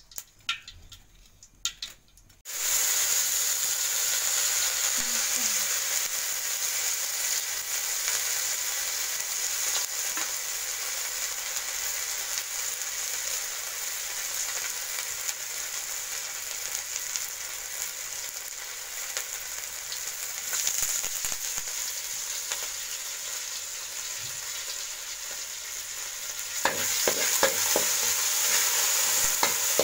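Food hitting smoking-hot oil in a large metal kadai, setting off a loud sizzle that starts suddenly about two and a half seconds in. The frying hisses steadily on, and near the end a utensil scrapes and stirs in the pan.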